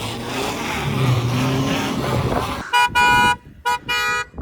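Car horn honking in two pairs of blasts, each a short toot followed by a longer one, after a couple of seconds of a car engine running under noise.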